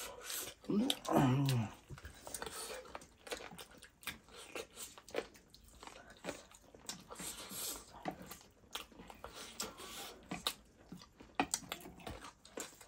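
Close-up eating sounds: chewing with wet mouth smacks and clicks scattered throughout. About a second in there is a short voiced hum or murmur that falls in pitch.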